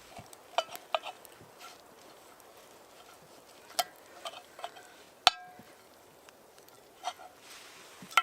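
Metal utensils clinking and tapping against cookware: six or so sharp, separate clinks, the loudest about five seconds in ringing briefly.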